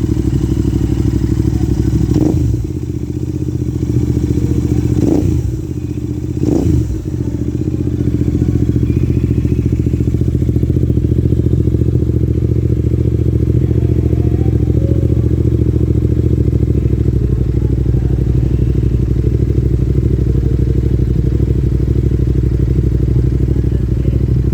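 Royal Enfield Interceptor 650's 648 cc parallel-twin engine idling through a stainless-steel Gursewak exhaust with the dB killer removed. It is revved three times in quick blips about 2, 5 and 6.5 seconds in, each rising and falling back, then settles to a steady idle.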